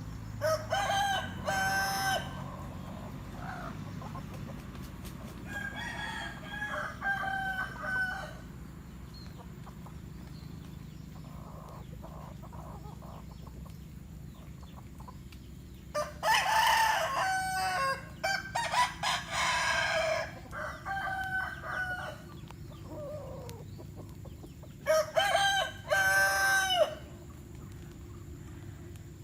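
Roosters crowing, in four bouts several seconds apart, the third a longer run of overlapping crows, with chickens clucking.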